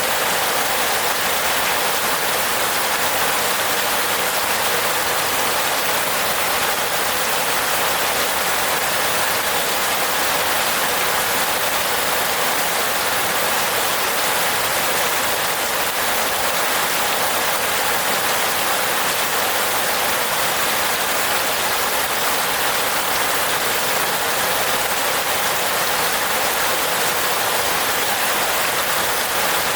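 Steady, dense rain falling on a roof, an even hiss of many drops without distinct individual hits.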